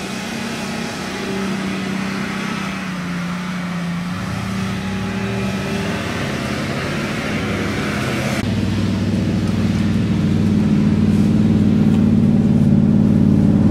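Off-road 4x4's engine running steadily. About eight seconds in, the sound switches abruptly to a stronger, deeper engine note that keeps growing louder.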